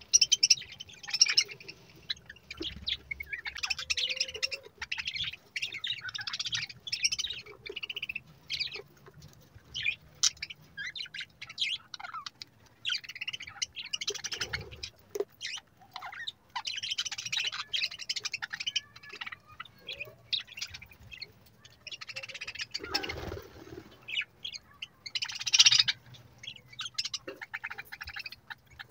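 Budgerigars chattering and warbling: rapid, irregular chirps and short chattering phrases, with louder bursts of warble now and then.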